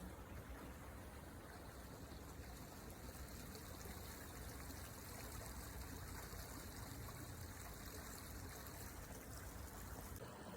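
Rain-swollen creek rushing steadily over small rapids, a faint, even sound of flowing water.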